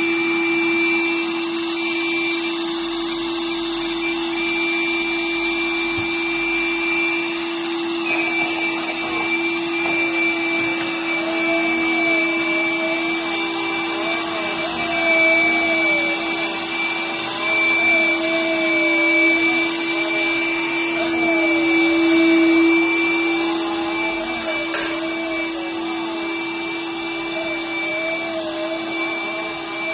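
Window-cleaning robot running on the glass: its suction fan gives a steady hum with a high whine above it, and a middle tone wavers up and down as it moves. One short click comes near the end.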